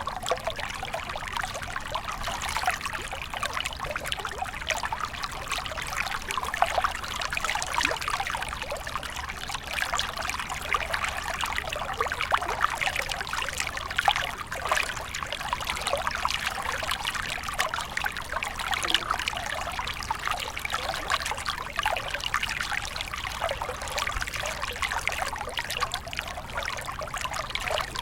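Stream water flowing and trickling over stones, a steady babbling of many small splashes.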